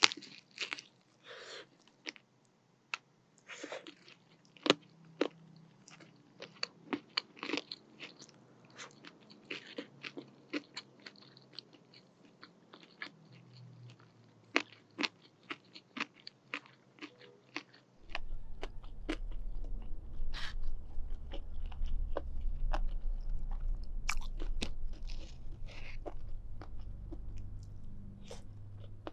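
Close-miked chewing of crispy fried chicken: a string of sharp crunches and crackles from the breaded skin, with wet mouth sounds between them. About two-thirds of the way through, a low steady rumble joins in under the chewing.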